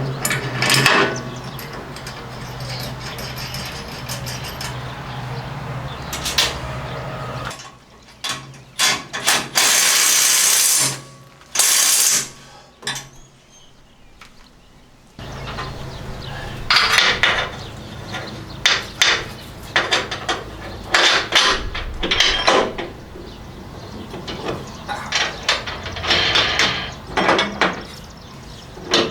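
Workshop sounds of metal parts being handled with hand tools. A steady low hum runs at first, then come two short loud hisses midway. After that, repeated sharp metal clinks and ratchet-like clicking.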